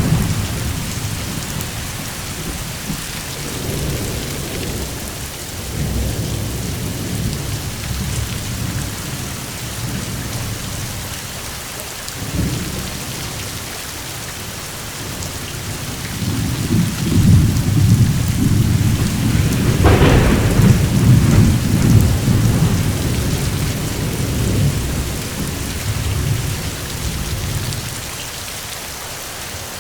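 Steady rain with thunder rumbling on and off. The loudest, longest roll comes about two-thirds of the way through, with a sharper crack near its peak.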